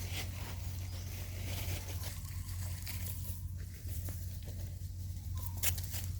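Scattered rustles and light clicks over a steady low hum, with a brief faint squeak about five and a half seconds in.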